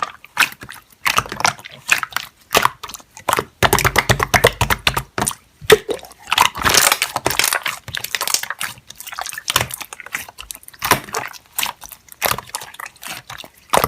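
Slime being squeezed and pressed by hand, making an irregular run of sticky clicks, pops and squelches.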